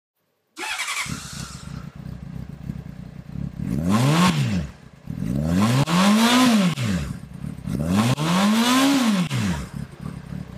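Motorcycle engine starting, idling, then revved three times, each rev rising and falling in pitch, the second and third longer than the first.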